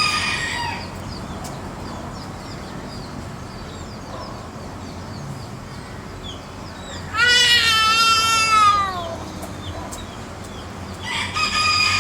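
A rooster crows once about seven seconds in: a long call of about two seconds that falls in pitch at the end. Shorter fowl calls come at the start and near the end, over repeated small bird chirps.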